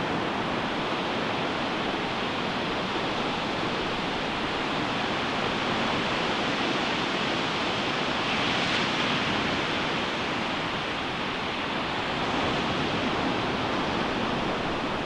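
Ocean surf breaking and washing on a sandy beach: a steady wash of noise, swelling briefly about nine seconds in.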